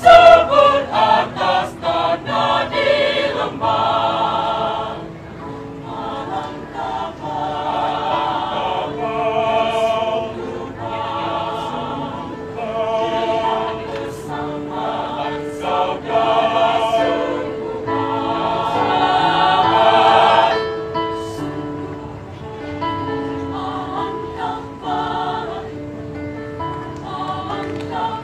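A church choir singing a sacred piece in harmony, several voice parts at once, its phrases swelling and fading, with a louder passage about two-thirds of the way through.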